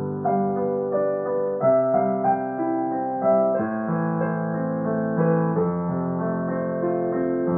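Piano music: a slow melody over sustained chords, the notes changing every half second or so.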